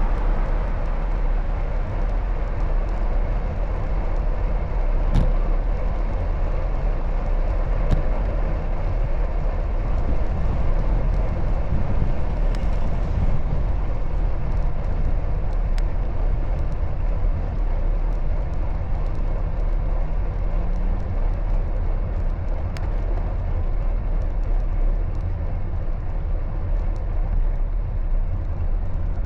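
Steady rumble of wind and road noise while cycling along city streets, with traffic in it and a few faint clicks.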